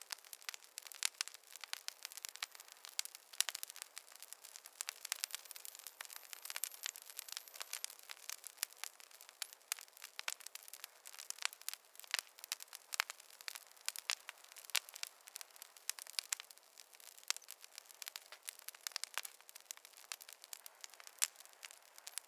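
Wood campfire burning, with a dense, irregular crackle of snaps and pops.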